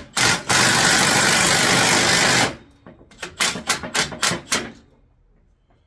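A power tool run in one steady burst of about two seconds, then in five or six short bursts.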